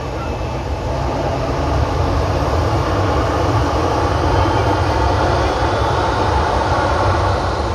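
Jet airliner passing close by: a steady engine roar that swells over the first two seconds and eases near the end.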